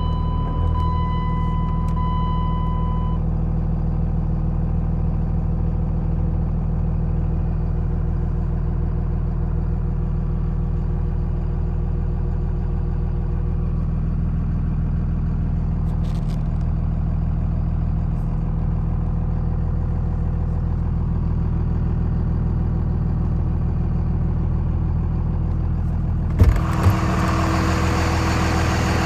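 5.9L Cummins inline-six turbo diesel idling steadily. An electronic beeping chime sounds over it for the first few seconds. Two sharp knocks come near the end, after which a louder hiss joins the idle.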